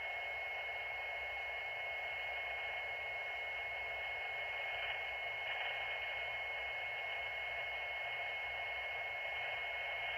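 Steady radio static hiss from a scanner receiving an open fire-department channel between transmissions, narrow and tinny as through a radio speaker, with a faint steady high whine underneath.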